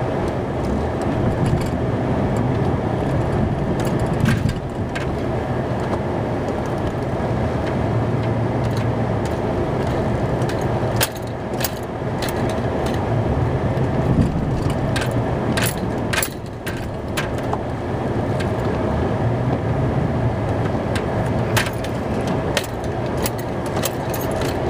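Plow truck engine running steadily while pushing snow, heard from inside the cab, with scattered sharp clicks and rattles, most of them about halfway through and again near the end.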